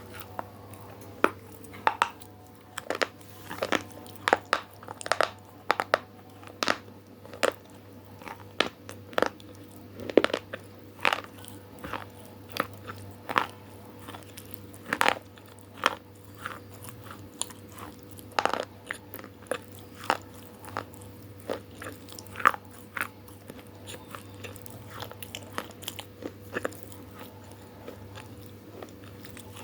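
Close-up chewing of crunchy food: sharp, irregular crunches, about one or two a second, growing sparser in the last few seconds.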